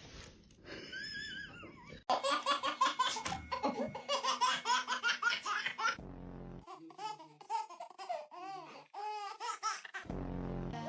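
A person laughing hard in quick repeated bursts, then in separate shorter laughs, after a brief wavering high-pitched call at the start.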